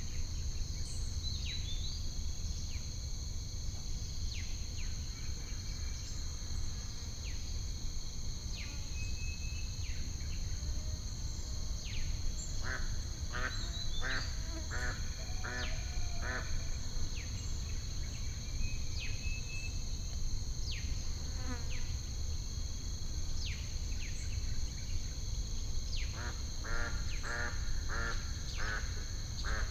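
Added nature ambience: a steady high drone of insects with scattered short bird chirps, and ducks quacking in two quick runs, around the middle and near the end, over a low steady rumble.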